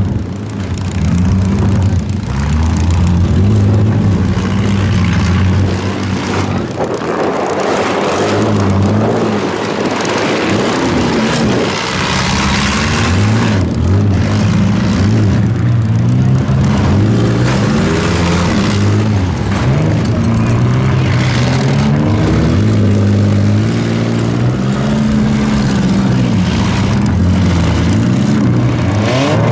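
Engines of several compact demolition derby cars running and revving, their pitch repeatedly rising and falling.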